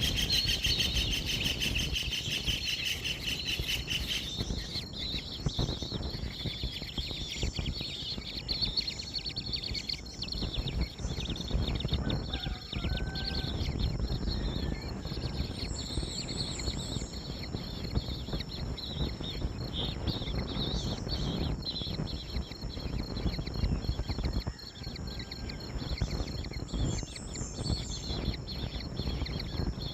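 Outdoor ambience: a steady high insect drone with a few short bird chirps, twice as a quick high cluster and once as a lower call, over a low rumbling noise.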